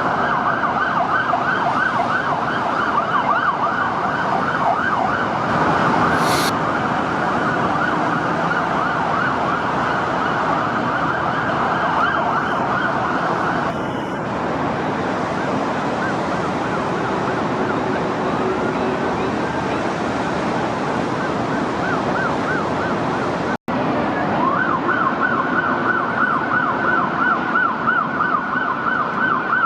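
Seattle Police vehicle sirens in a fast rising-and-falling yelp, heard from high above city streets over a haze of downtown traffic. The siren eases into slower glides for a while, cuts out briefly, then comes back in a fast yelp near the end.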